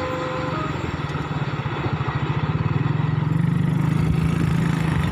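A level-crossing warning chime's alternating electronic tones sound briefly and stop about half a second in. A nearby engine then runs with a fast, even pulse, growing louder.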